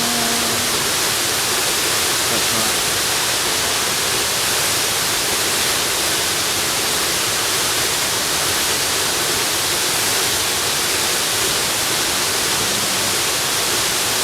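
Waterfall rushing: a steady, even hiss of falling water. A brief falling tone fades out in the first second.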